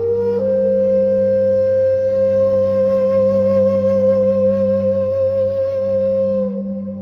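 Slow meditation music: a flute-like wind instrument holds one long note with a gentle vibrato over a steady low drone, then slides down near the end.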